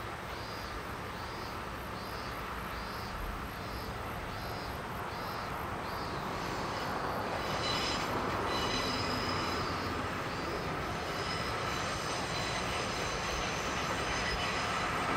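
Diesel-hauled trolley train running along the line, its rumble slowly growing louder, with a high steady squeal of steel wheels setting in about halfway through. An insect chirps about twice a second during the first half.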